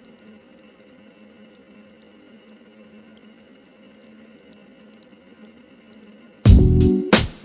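Faint, steady ambience with a low hum and a few tiny ticks, then chillhop music with a steady beat cuts in loud about six and a half seconds in.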